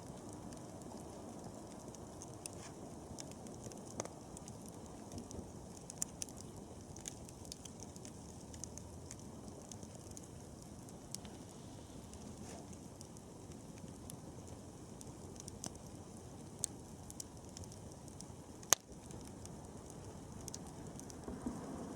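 Wood campfire burning with a steady low rush of flames and scattered crackles and pops, one louder pop near the end.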